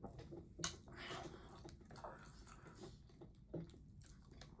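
A person chewing and biting food close to the microphone, faint wet mouth sounds with two sharp clicks, one under a second in and one later on.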